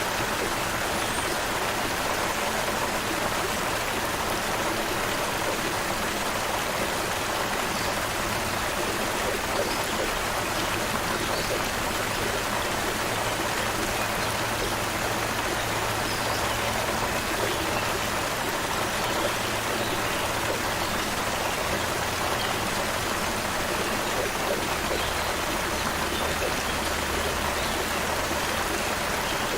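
Shallow stream flowing steadily over rocks, an even rushing and splashing of water, with a few faint bird chirps now and then.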